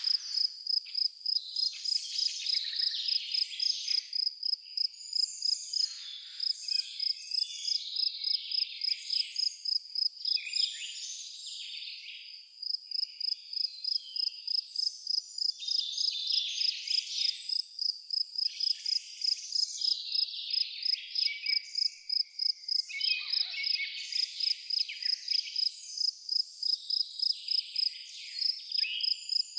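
A cricket chirping steadily, a high pulsed note about two to three times a second that pauses briefly about ten seconds in. Birds sing and call irregularly over it.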